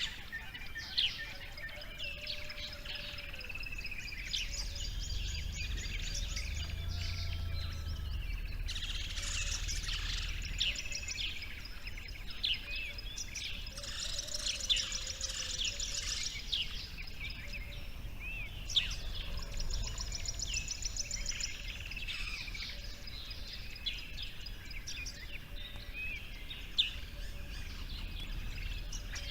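Several birds calling together: many short chirps and rapid buzzing trills overlapping throughout, with a faint low rumble underneath.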